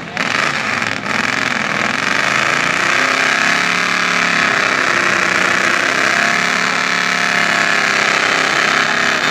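A lifted pickup truck's engine running loudly and revving, its pitch slowly rising and falling.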